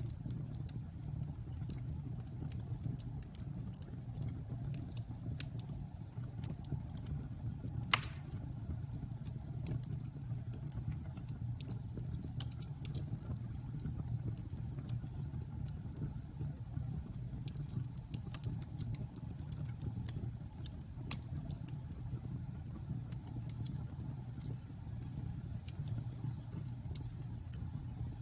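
Wood bonfire burning: a steady low rumble of the flames with scattered small crackles, and one louder pop about eight seconds in.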